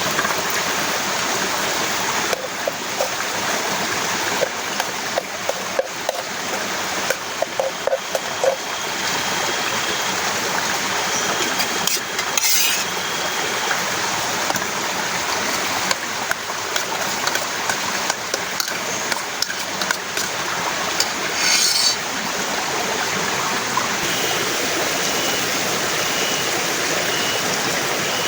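Heavy rain falling steadily, a dense hiss with scattered louder drips and taps.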